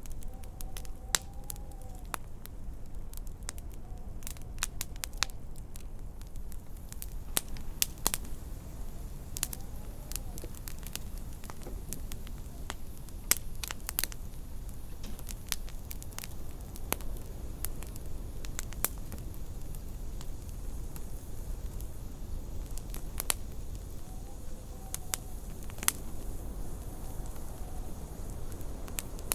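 Wood fire in a fireplace crackling, with irregular sharp pops of varying loudness over a steady low rumble. A faint wind howl rises and falls a few times.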